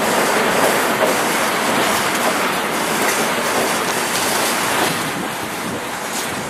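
Steady rushing rolling noise of a freight train moving away, slowly fading.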